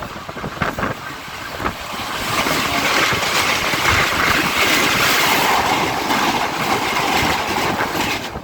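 EMU local train running at speed, heard from on board, with wind noise and the knock of wheels over rail joints. It swells about two seconds in and eases off near the end.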